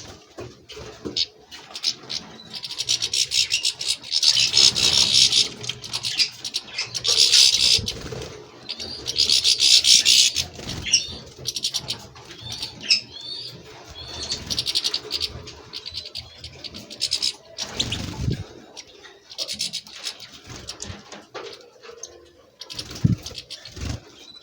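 European goldfinches twittering in repeated bursts of quick, high chattering notes, with a few lower muffled sounds in between.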